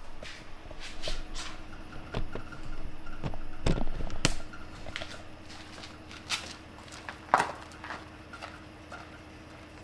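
Scattered knocks, clicks and footsteps of someone moving about and handling gear, with sharper knocks about 4 seconds in and about 7 seconds in, over a faint steady hum.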